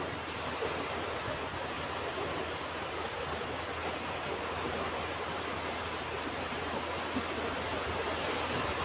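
Ocean waves washing onto a beach, a steady unbroken rush of surf with no single wave standing out.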